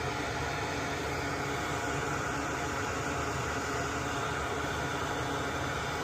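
Steady whirring hum of a small electric fan-driven machine, even and unchanging throughout.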